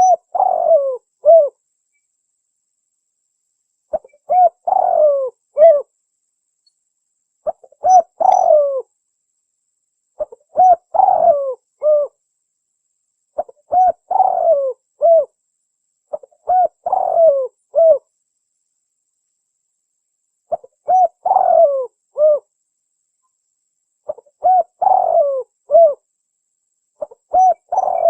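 Spotted dove (tekukur) cooing as a lure call. It repeats the same short phrase of several coos about every three seconds, with silence between phrases.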